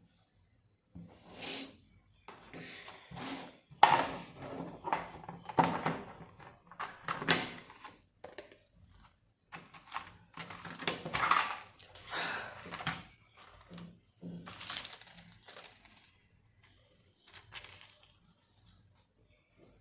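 Irregular taps, clicks and rustles of art materials being handled at a table, with a few sharper knocks among softer scraping sounds.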